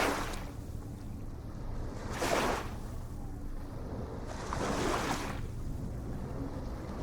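Ocean waves breaking in short splashes about every two and a half seconds, over a steady low rumble of surf.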